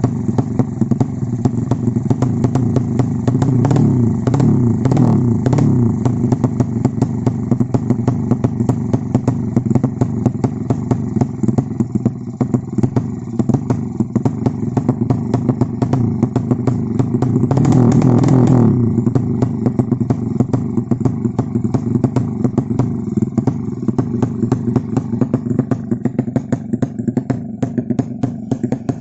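A race-prepared motorcycle engine runs at idle with a rapid, even beat. It is blipped up in short revs about four to six seconds in and again around eighteen seconds.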